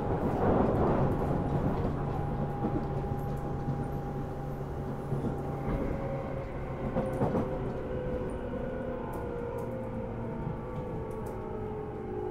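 Tobu Railway electric commuter train heard from on board while running: a steady rumble of wheels on the rails with the hum of the traction gear. From about halfway the motor tones fall slowly in pitch as the train slows.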